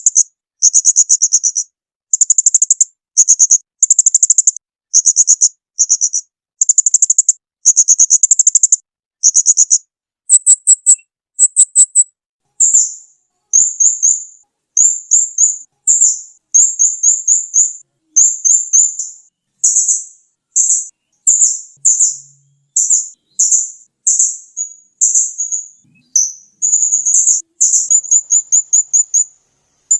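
Small songbird singing loud, very high-pitched phrases of rapid buzzy trills, roughly one burst a second. About halfway through, the phrases turn into quicker, more varied chirps and rattles.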